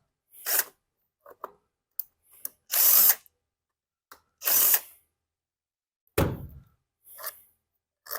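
Cordless drill-driver spinning in several short bursts, about half a second each, backing out the screws of a leaf blower's plastic housing.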